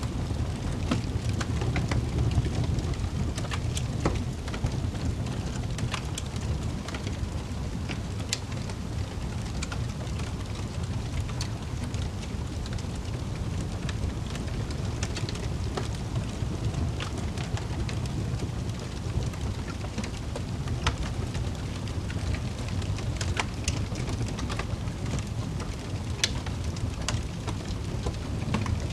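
Fireplace fire crackling: scattered sharp snaps and pops over a steady low rumble.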